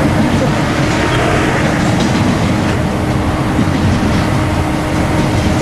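Double-stack intermodal freight train's container cars rolling past close by, a loud, steady rumble of wheels on rail.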